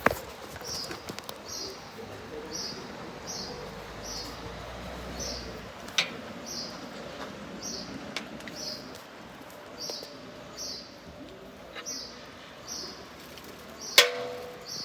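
A small bird chirping over and over at an even pace, about one short high chirp every 0.7 seconds, with a few sharp knocks. The loudest knock comes near the end and rings on briefly with a tone.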